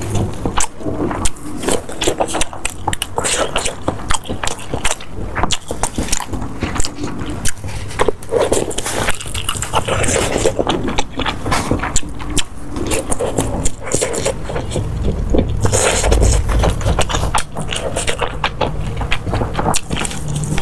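Close-miked eating sounds: food being chewed, with many irregular crisp crunches and clicks.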